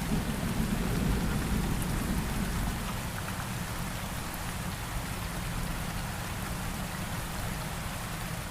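Steady rain falling, with a low rumble of thunder that eases over the first few seconds.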